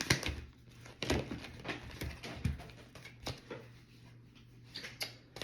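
Tarot cards being handled and shuffled: a string of irregular soft clicks and flicks, over a steady low hum.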